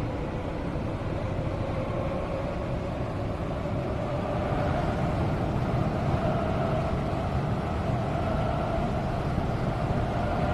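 Seoul Metro Line 2 subway train running between stations, heard from inside the car: a steady rumble of wheels on rail, with a motor whine that slowly rises in pitch and grows a little louder as the train picks up speed.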